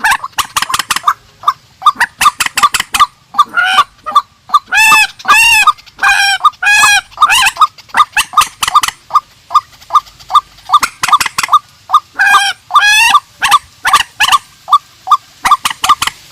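Purple swamphen and white-breasted waterhen calling loudly: a fast run of short, clipped repeated notes, broken twice by longer harsh, rising-and-falling calls, at about four to seven seconds in and again around twelve seconds in.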